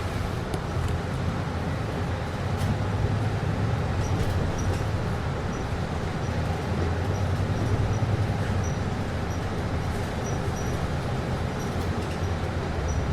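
Steady cabin noise inside an air-conditioned city bus: the air conditioning runs over a low engine and road rumble, with a few faint clicks.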